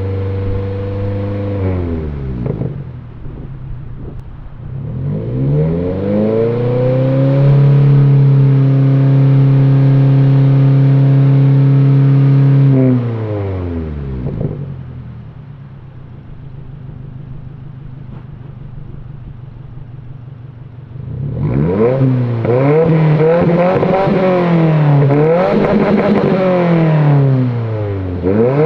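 2022 Subaru WRX's turbocharged 2.4-litre flat-four heard through an ETS axleback exhaust, being revved. The revs drop, climb and hold steady and loud for about five seconds, then fall back to a lower, quieter drone. About two-thirds in they rise and fall again in quick repeated swells.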